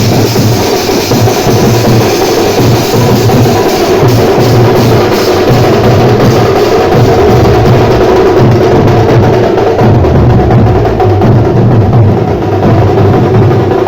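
Loud music driven by heavy, continuous drumming with a pounding low beat.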